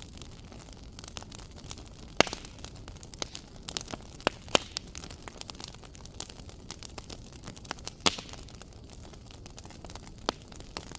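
Fireplace fire crackling: irregular sharp pops and snaps over a low steady hiss, with the loudest pops about two seconds in and about eight seconds in.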